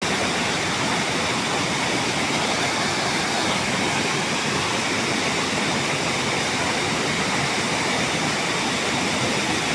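A waterfall rushing, a steady, unbroken noise of falling water.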